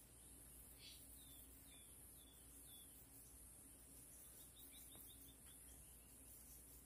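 Near silence with faint bird chirps: a few short falling chirps spaced apart, then a quick run of them about four to five seconds in.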